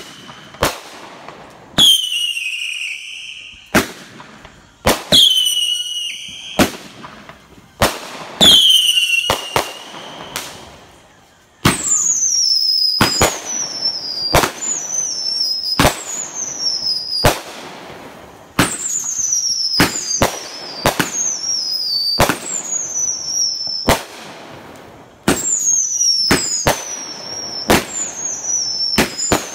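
Fireworks going off close by: a string of sharp bangs about once a second, most followed by a whistle that falls in pitch. The bangs come quicker near the end.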